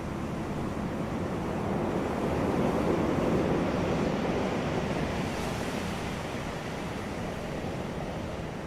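Ocean waves breaking on a beach: a steady wash of surf that swells to a peak about three seconds in and slowly recedes.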